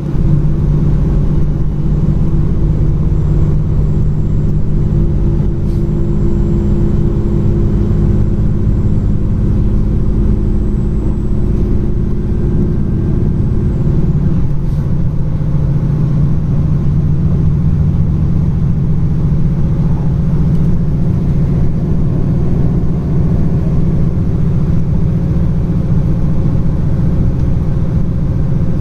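A train running with a steady low rumble, its tone shifting about halfway through.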